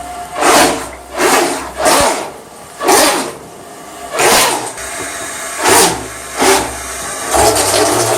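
Small battery-powered RC speed boat's electric motor and propeller whirring in short throttle bursts, churning water in a bathtub; about seven quick blips, then a longer run near the end.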